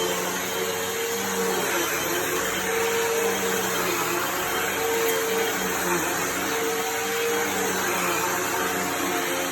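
Bagless Hoover vacuum cleaner running steadily: a motor whine over a steady hum that wavers slightly in pitch.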